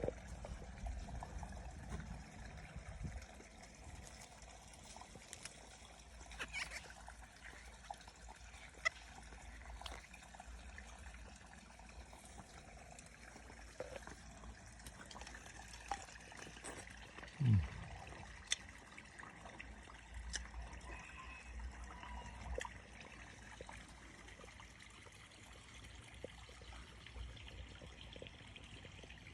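Water trickling steadily, with scattered small clicks and a single low thump about seventeen seconds in.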